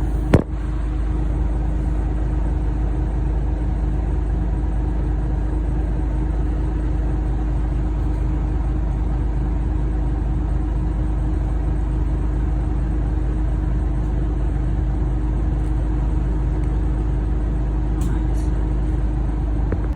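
Scania OmniCity single-deck bus heard from inside the saloon while under way: steady engine and road rumble with a constant hum. A single sharp click comes about half a second in.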